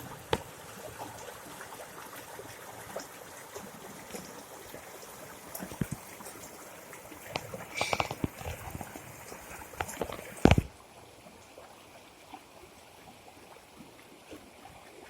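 Floodwater flowing and trickling, with scattered knocks and a loud thump about ten and a half seconds in, after which the sound turns quieter and duller.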